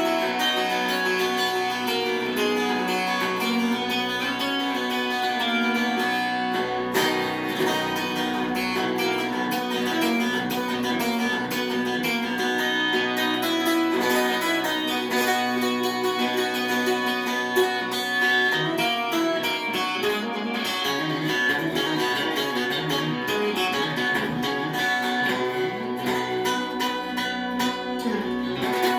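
Plucked-string music led by guitar, with many notes sounding together throughout.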